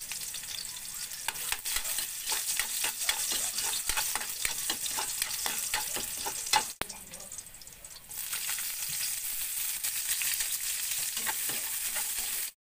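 Garlic sizzling in hot oil in a wok, with a metal spatula scraping and tapping against the pan over and over as it is stirred. A sharp click a little past the middle, after which the sizzle is quieter for about a second before picking up again; it cuts off suddenly near the end.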